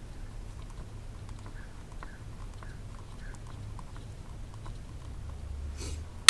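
Faint, uneven clicking of a ratchet with a 10 mm socket backing out coil pack bolts, over a low steady hum. A sharper click comes at the very end.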